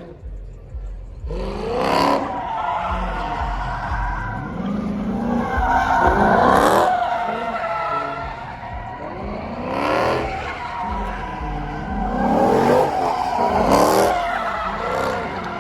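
Cars drifting: engines revving hard and tyres squealing, in about four loud surges that rise and fall, starting about a second in.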